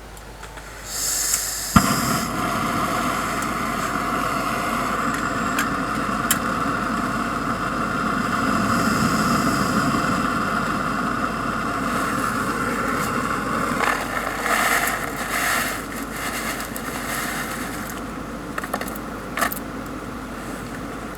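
Compact gas camping stove being lit: gas hisses as the valve opens, a sharp click of ignition, then the burner runs with a steady hiss. A few short clinks and scrapes come in the second half.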